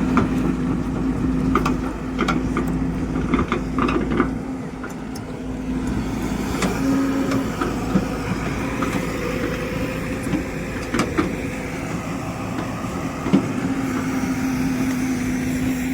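Heavy vehicle engine running steadily with a constant hum, with scattered short knocks and clatters over it.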